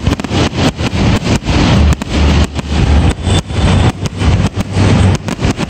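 Finale barrage of aerial firework shells bursting in rapid succession, many bangs a second running together over a continuous low rumble. The recording is overloaded and distorts on the loud booms.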